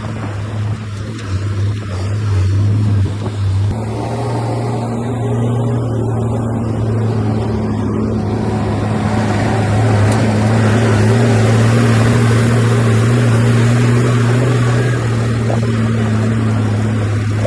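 Diesel engine of heavy earthmoving machinery running steadily, its note shifting about four seconds in and growing louder from about ten seconds in, then easing near the end.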